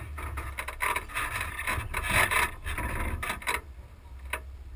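Branches and scrub rubbing and scraping along the side of a towed camper trailer, in irregular rasping bursts over a steady low rumble from the moving rig.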